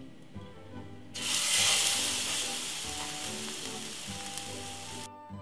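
French-toast batter-soaked bread slice laid into a hot oiled frying pan: a sudden loud sizzle about a second in that slowly eases off as it fries.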